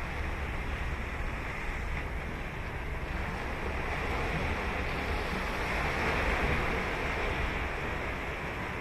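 Ocean surf washing onto the beach, a steady rush that swells about five seconds in, with a low rumble of wind on the microphone.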